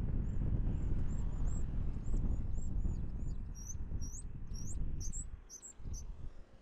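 Small birds chirping in a run of short, high calls that turn into louder, upward-sweeping chirps midway, over gusty wind buffeting the microphone; the wind rumble falls away near the end.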